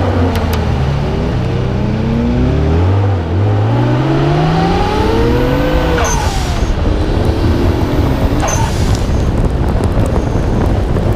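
Nissan Skyline R32 GT-R's twin-turbo straight-six: the engine note falls, dips briefly about three seconds in, then rises again until about six seconds in, when the throttle lifts with a blow-off valve hiss; a second hiss follows about two seconds later. After that mostly wind and road noise remain.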